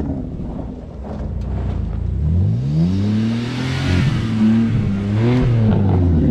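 BMW F80 M3's twin-turbo straight-six revving hard in the snow. The revs climb about two seconds in, hold high and fall back near the end, with a rushing hiss of wheelspin while they are up.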